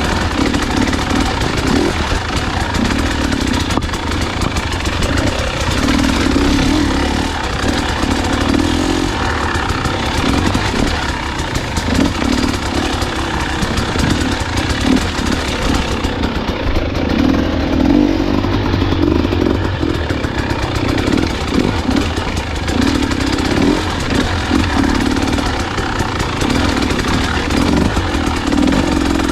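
Dirt bike engine running on a trail ride, the throttle opening and closing so its note swells and fades every few seconds.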